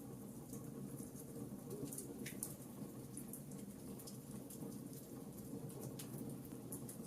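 Fireplace fire crackling: scattered sharp snaps and pops over a steady low rush of flame.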